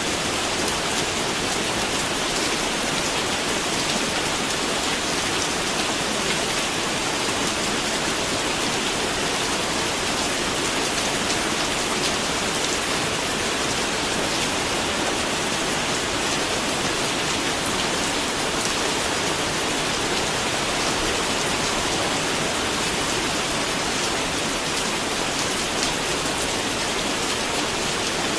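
Steady rain falling on a surface, an even hiss with fine drop patter and no let-up.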